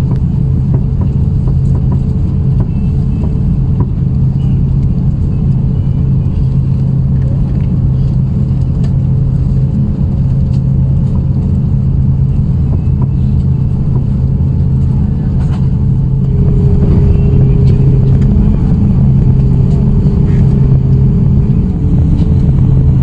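Steady low drone of engine and air-conditioning noise inside the cabin of an Airbus A350-900 as it taxis out; it grows slightly louder about two-thirds of the way through, with a faint steady whine joining it.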